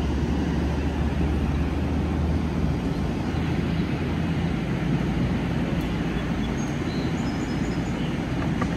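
NJ Transit commuter train standing at the platform, its equipment giving a steady low hum over a haze of noise.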